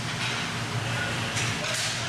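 Ice hockey rink ambience: skates scraping the ice in a few short hissing strokes over a steady low hum.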